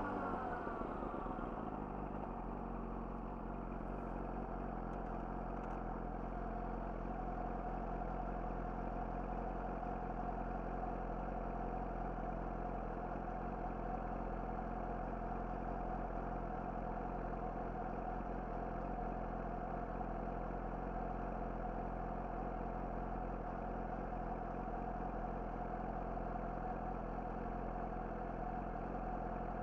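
Yamaha YZF-R6's inline-four engine through an Akrapovic slip-on exhaust, revs dropping in the first second or two, then idling steadily.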